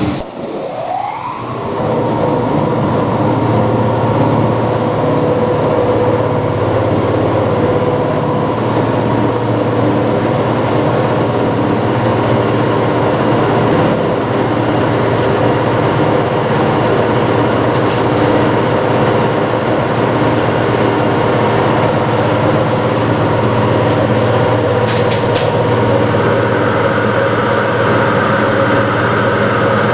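Old elevator hoist machine starting abruptly, its whine rising steeply over about a second and a half as the motor comes up to speed. It then runs loud and steady, a hum with several whining tones, while the car travels. A higher whine joins near the end.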